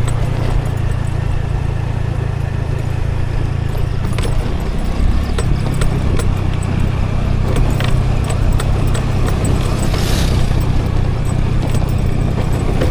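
Scooter engine running steadily with road and wind noise, and frequent small clicks and rattles. A brief hiss comes about ten seconds in.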